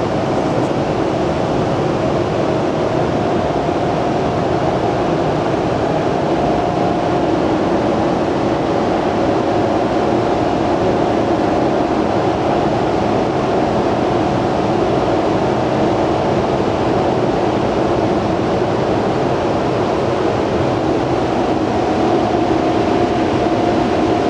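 Machinery running steadily with a constant hum and noise, unbroken throughout.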